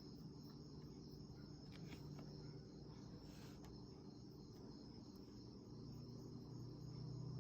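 Near silence: room tone with a steady high-pitched whine and a low hum.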